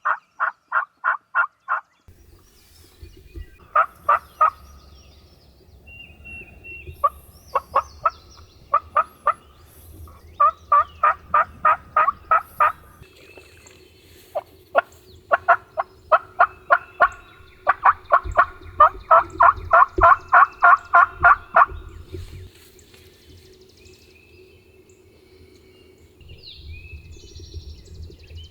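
Turkeys yelping: repeated runs of evenly spaced notes, about four a second, some runs loud and close and others fainter, overlapping at times. The calling stops near the end, leaving a low rumble.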